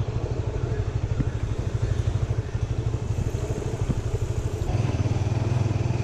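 Honda Winner 150's single-cylinder engine running as the motorcycle is ridden slowly, a fast low pulsing note with road and wind noise. About three-quarters of the way in the engine note becomes steadier and a little louder.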